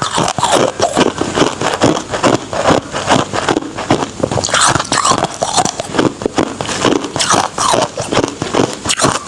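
Close-miked ice being bitten and chewed: a dense, irregular run of crunches and crackles without a break.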